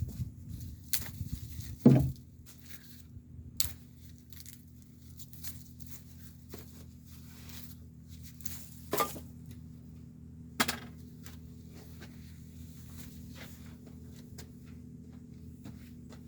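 Scattered knocks and rustling from objects being handled, with a sharp knock about two seconds in and two more around nine and ten and a half seconds, over a steady low hum.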